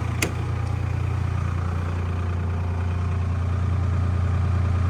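Cold 2012 Cummins 6.7 diesel in three-cylinder idle, an emissions-deleted truck engine running with a steady low rumble while it warms up. A single sharp click comes about a quarter second in.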